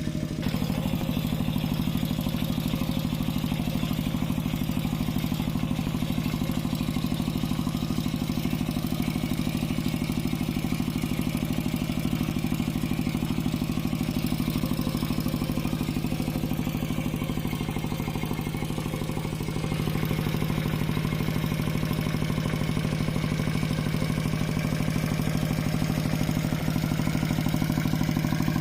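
Mini tractor's engine running steadily with an even, clattering beat; it eases off slightly about two-thirds of the way through, then picks back up.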